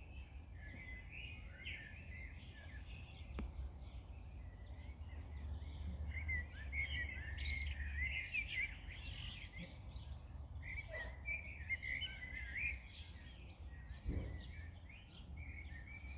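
Several songbirds chirping and singing in dense, overlapping short notes over a steady low outdoor rumble, with a single faint click and a soft low thump.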